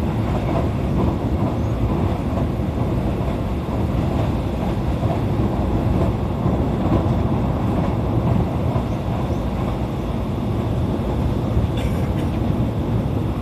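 Running noise of a JR East E531 series electric train at speed, heard from inside the car: a steady rumble of wheels on rail, with a couple of faint clicks near the end.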